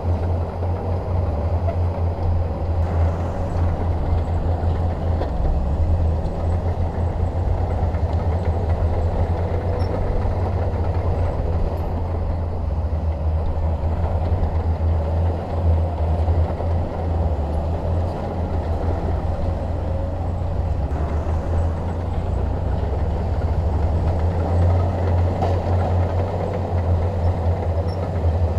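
Shantui DH17 bulldozer's diesel engine running steadily with a low, even drone.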